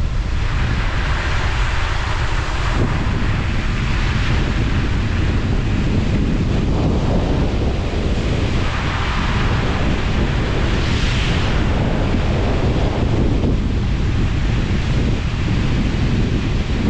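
Loud, steady rushing noise with a deep rumble underneath, swelling and easing a little every few seconds.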